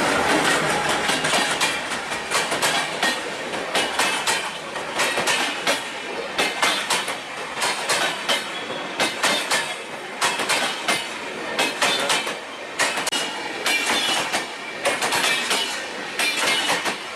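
Passenger train's LHB coaches rolling past at speed, the wheels clicking over rail joints many times a second under a steady rolling rumble.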